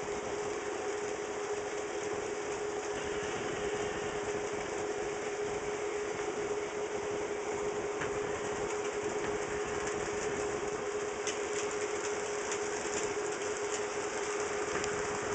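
HO scale model trains running on a DC-powered layout: a steady whine of the small electric motors over the running noise of the wheels on the track, with a few light clicks about two thirds of the way through.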